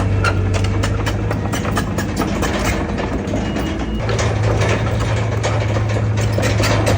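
Diesel engine of a heavy earthmoving machine running steadily, with frequent short clanks and clicks over it. The engine note eases about three seconds in and comes back up a second later.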